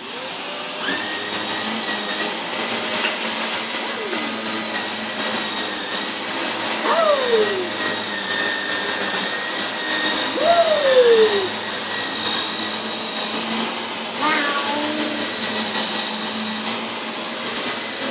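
Shark Lift-Away upright vacuum cleaner running steadily, with a motor whine, as it sucks up spilled rice; there are brief louder rushes of noise now and then.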